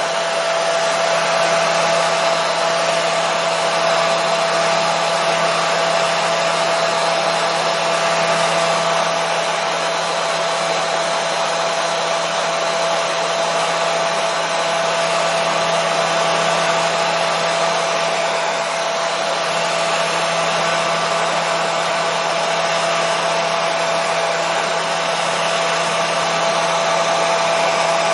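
Hair dryer running steadily: an even rush of air with a constant hum and a thin whine held on one pitch, unchanging throughout.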